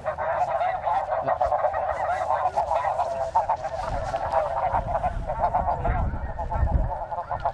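A large flock of snow geese calling, a dense unbroken chorus of many overlapping high honks, with wind rumbling on the microphone about four to seven seconds in.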